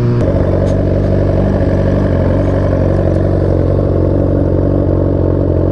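Suzuki GSX-R1000 inline-four engine idling steadily, its note shifting slightly just after the start.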